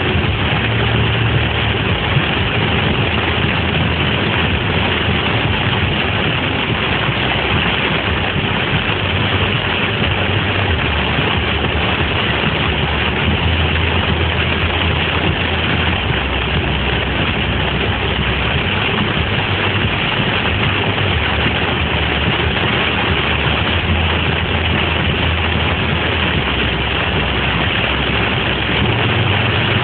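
Floodwater rushing in a steady, loud, unbroken noise with a shifting low rumble underneath.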